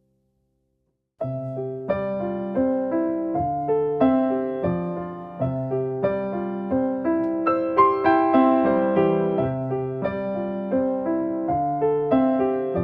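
Background music: after a second of near silence, a gentle piano piece starts and plays a steady flow of notes.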